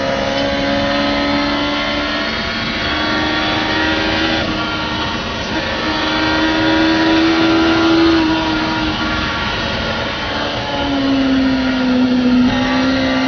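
Yamaha R1 inline-four motorcycle engine in a Mini running hard on track, heard from inside the cabin. Its high-revving note climbs over the first several seconds, drops away briefly around nine seconds in, then comes back and slowly falls.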